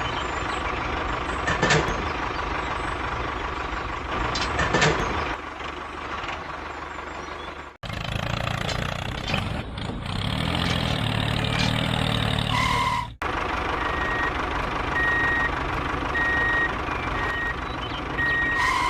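A vehicle engine runs steadily with a constant whine, in three stretches split by abrupt cuts. In the last stretch a reversing beeper sounds about once a second over the engine.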